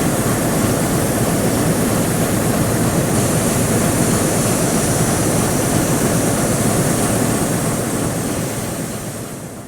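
ChME3T diesel shunting locomotive running steadily close by, a dense low rumble with a hiss over it. It fades out near the end.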